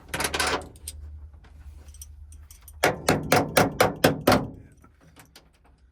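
Steel-toe boot striking metal parts of the van's side door lock in a quick run of about seven sharp knocks, a little over a second in all, standing in for a hammer. The blows are not enough: it needs a hammer.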